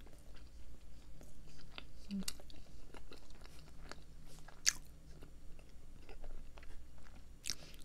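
A person chewing a mouthful of peanut-butter-topped donut, with many small wet mouth clicks. Two louder smacks stand out, about four and a half seconds in and near the end.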